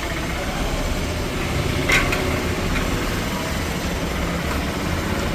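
Steady low rumble of nearby vehicle engines and traffic, with one sharp click about two seconds in.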